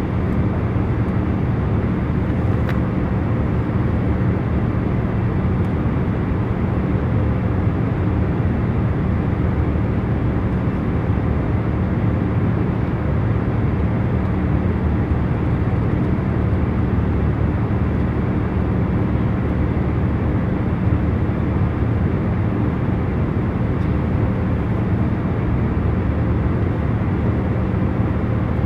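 Steady hum of an airliner cabin in cruise flight: even noise strongest in the low end with a faint steady drone on top, unchanging throughout.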